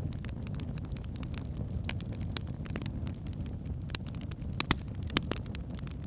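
Logs burning in a fireplace: a steady low rumble of flames with frequent sharp crackles and pops. Two louder pops come a little over a second before the end.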